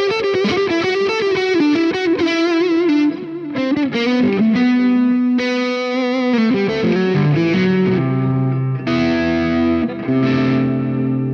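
Electric guitar played through a Joyo R-20 King of Kings dual overdrive pedal, a Bluesbreaker-style overdrive: a fast lead line with bends and vibrato runs down into a falling phrase. Three struck chords then ring out near the end.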